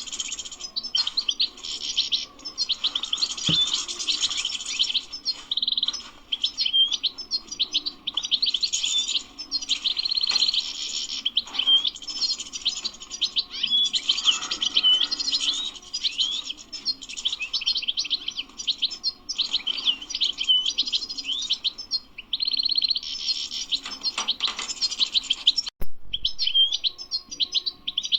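European goldfinch singing: a long, continuous run of rapid twittering, chirps and short trills, broken briefly near the end.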